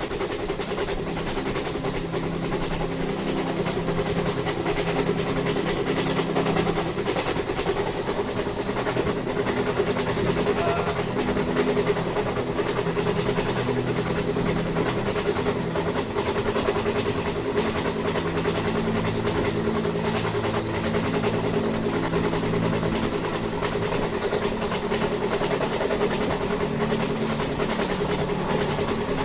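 Train running on rails: a steady rumble with a steady low hum.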